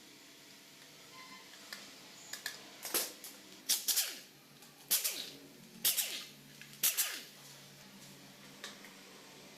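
Sharp metallic knocks and clinks of hand tools on engine parts while a seized TVS Jupiter 110cc engine is taken apart, about six strikes between three and seven seconds in, some briefly ringing.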